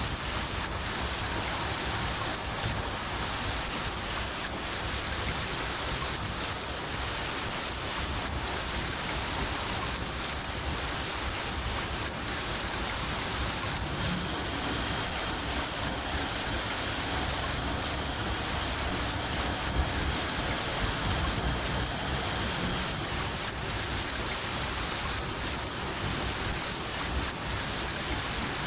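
A cricket chirping steadily in a rapid, even rhythm of about two to three high-pitched chirps a second, over the steady hiss of falling rain.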